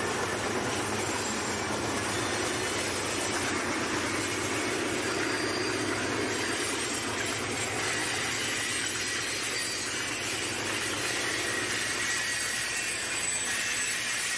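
Freight train of Norfolk Southern hopper cars rolling past, a steady noise of steel wheels running on the rails.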